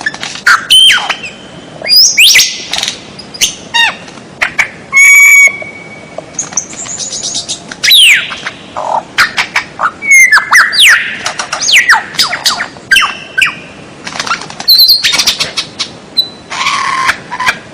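Songbird calls from a bird-song tutor recording: a rapid, loud string of sharp chirps, fast rising and falling whistles and short harsh squawks, one after another with hardly a pause.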